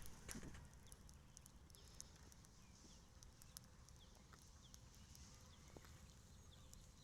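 Cattle grazing, heard faintly: a few scattered soft clicks of grass being cropped over a low steady background.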